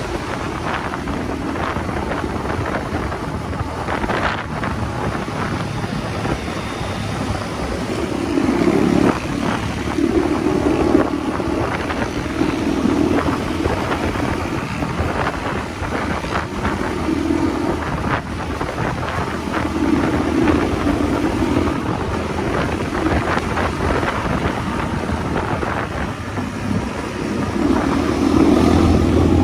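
Motorcycle engine running while riding, mixed with wind rushing on the microphone. The engine note swells several times and is loudest near the end.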